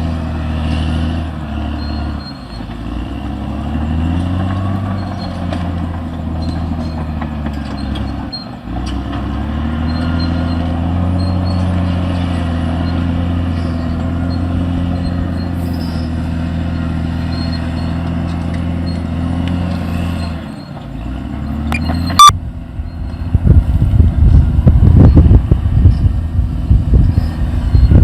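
Caterpillar D6R XL bulldozer's diesel engine running under load, its pitch dipping briefly three times as the load changes. About three-quarters of the way through, a sharp click cuts it off, and loud, irregular low buffeting follows.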